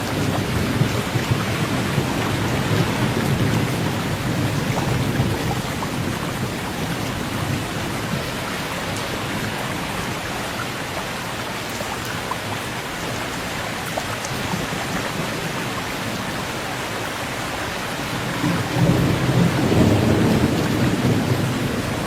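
Steady rain, with low rumbles of thunder swelling in the first few seconds and again near the end.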